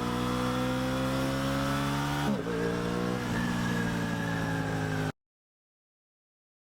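Aprilia Tuono 660 parallel-twin engine pulling under acceleration, its pitch climbing steadily, dipping briefly at a gear change about two seconds in, then climbing again. The sound cuts off abruptly about five seconds in, leaving silence.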